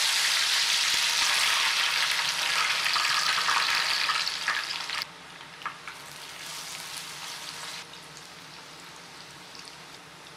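Elephant yam sticks frying in hot oil with a dense, loud sizzle, and a slotted steel spoon stirring and tapping against the pan. About halfway through the sizzle drops suddenly to a quieter, steady frying.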